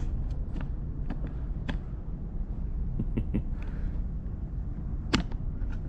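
Scattered clicks and knocks of equipment being handled and set up, the loudest about five seconds in, over a steady low rumble.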